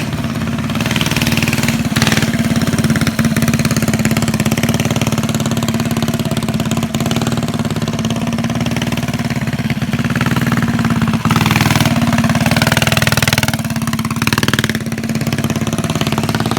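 Small single-cylinder mini bike engine running with a steady drone, its pitch rising and falling about three-quarters of the way through as the throttle is worked or the bike goes by.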